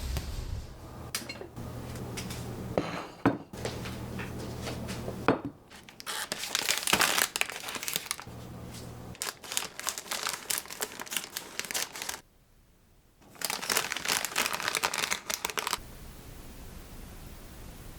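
Packaging crinkling as it is handled, in several bursts a few seconds long with short pauses between.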